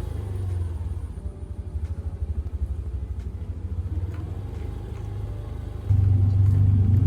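A low, uneven rumble that gets much louder for about the last second.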